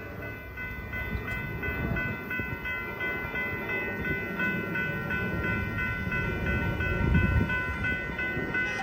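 Passenger train cars rolling past with a low rumble, over a high ringing tone that repeats in short, even pulses.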